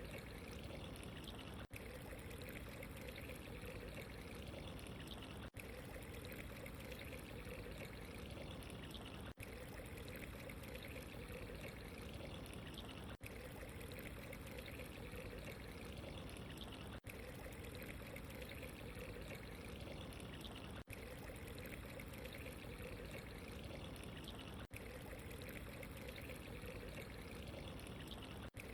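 Steady trickling, pouring water, even and unbroken except for a very brief dropout about every four seconds, where the recording loops.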